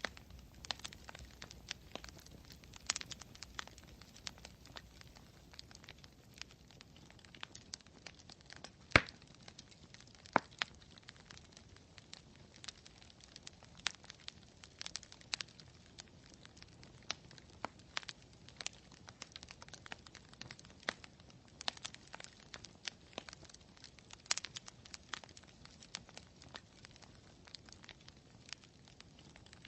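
Campfire crackling: irregular snaps and pops of burning wood over a low steady hiss, with one sharp, loud pop about nine seconds in.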